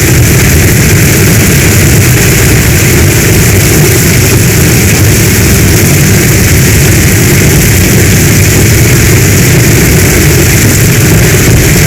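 Heavy storm rain, a loud, steady hiss with a deep rumble underneath, unchanging throughout.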